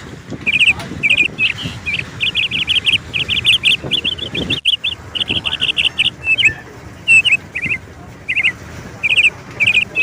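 Birds chirping in quick runs of short, repeated high notes, almost without pause, with a brief break a little before halfway through.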